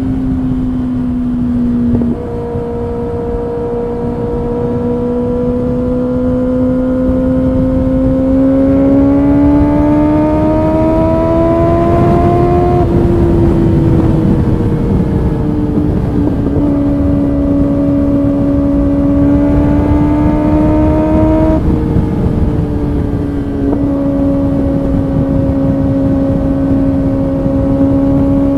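Kawasaki ZX-6R inline-four engine running at highway speed, its pitch climbing steadily under throttle and dropping abruptly at upshifts about two seconds in, near the middle, and twice more in the last third. A low rushing noise runs underneath.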